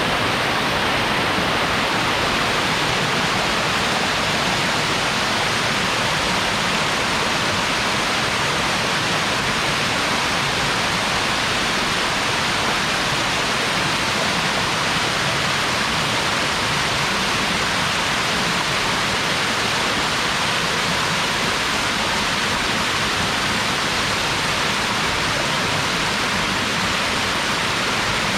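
Waterfall's steady rushing water, with no breaks.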